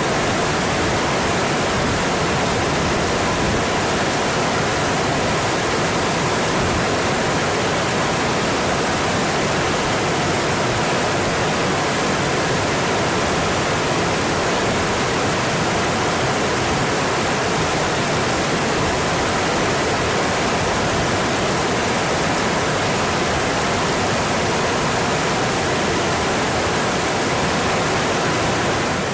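Mountain stream rushing steadily over its rocky bed, an even, unbroken splashing rush of water.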